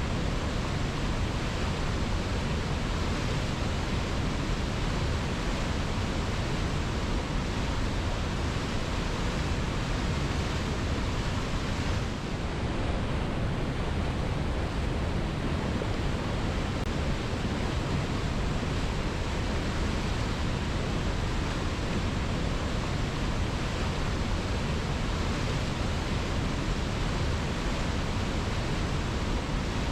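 Waterfall, a steady, unbroken rush of falling water, heaviest in the low end, with a brief slight dip about twelve seconds in.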